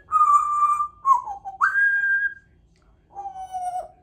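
Congo African grey parrot whistling four clear notes: a held middle note, a short falling one, a higher held note, then a lower note that sags slightly near the end.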